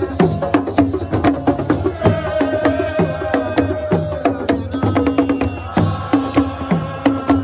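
Drum ensemble playing a fast, dense rhythm of sharp hand-drum strokes, each with a short pitched decay that drops slightly, with a long held note sounding over it from about two to four seconds in.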